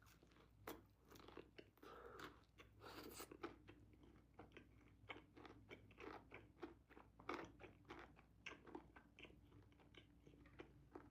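Close-up chewing of chicken wings: soft, irregular crunches and wet mouth clicks as the meat and skin are bitten and chewed.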